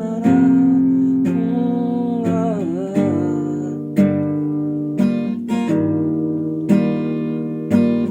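Acoustic guitar strumming chords, one sharp stroke about every second, each left to ring and fade before the next.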